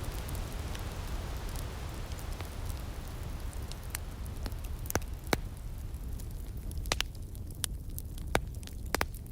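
Outdoor firepit wood fire crackling, with sharp separate pops over a low steady rumble. A soft hiss under it in the first part fades away about seven seconds in, leaving the pops clearer.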